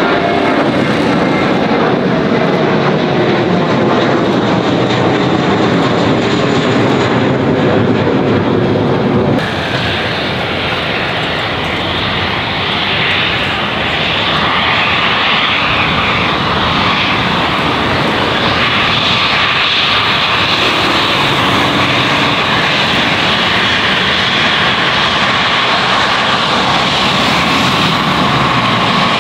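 Airbus A320 jet airliner's engines running loud and steady, with a falling whine in the first seconds. About nine seconds in the sound changes abruptly to a steadier, higher jet noise.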